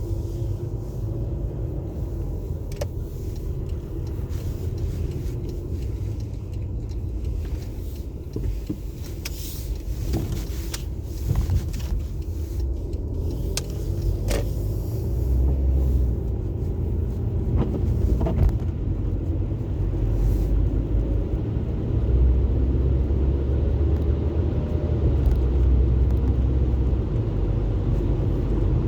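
Car driving, heard from inside the cabin: a steady engine and road rumble that grows louder about halfway through, with a few short knocks.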